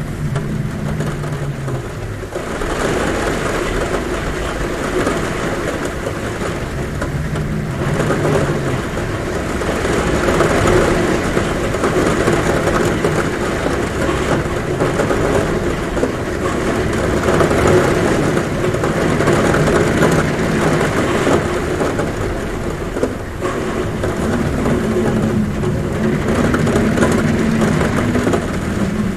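Heavy rain pouring steadily on a roof, swelling and easing slowly, with wind humming at the window in a low hum that comes and goes a few times.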